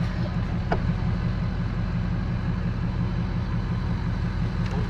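A vehicle engine idling with a steady low drone, with a faint click about three-quarters of a second in.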